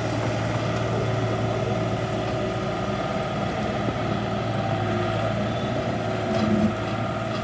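Excavator's diesel engine running steadily, with a slight rise in level about six and a half seconds in.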